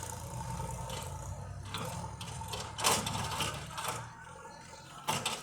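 Tractor engine running with a steady low rumble, and a string of sharp metallic clanks and rattles through the middle, the loudest about three seconds in, with another knock near the end.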